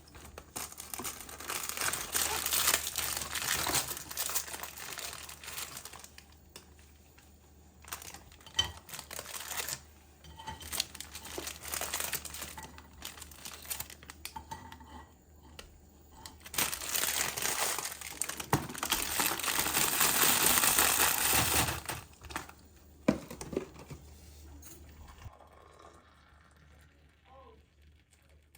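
Packaging being handled and crumpled: crinkling and rustling in several bouts, quieter near the end.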